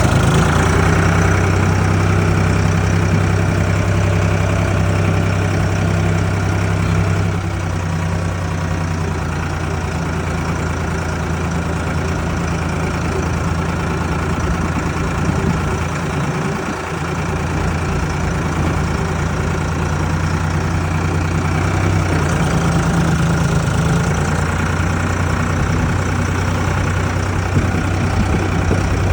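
Ford 3600 tractor's three-cylinder engine running steadily at low speed, easing off slightly about a quarter of the way in and picking up again a few seconds before the end.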